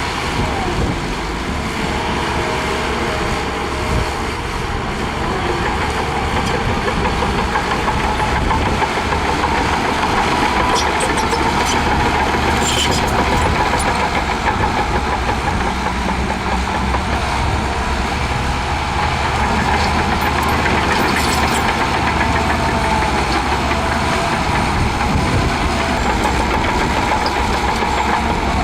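Shantui DH17C2 bulldozer's diesel engine running steadily with a wavering whine over it, getting a little louder about a third of the way in. A few sharp clicks come around the middle.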